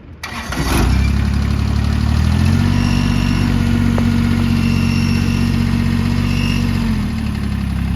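Kubota BX2380's 23 hp three-cylinder diesel starting: a brief crank, then it catches about a second in. It revs up to a higher steady speed a second or so later and drops back to idle near the end.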